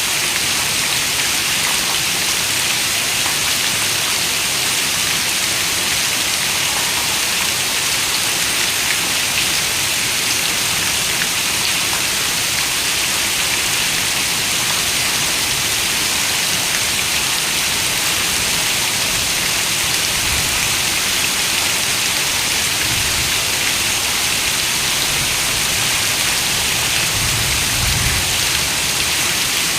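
Steady rain on a window: an even, dense hiss of falling rain with scattered drop ticks, and a few faint low rumbles in the last third.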